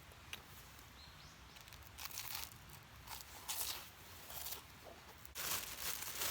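Irregular rustling and crinkling handling noises in several short bursts, the loudest near the end.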